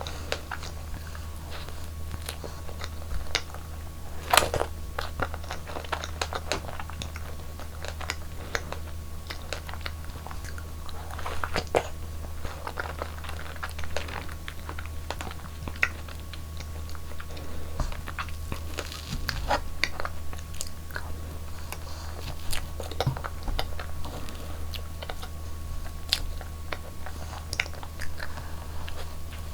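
Close-miked eating: irregular bites and chewing with crisp crunches and wet clicks, the loudest crunch about four seconds in, over a steady low hum.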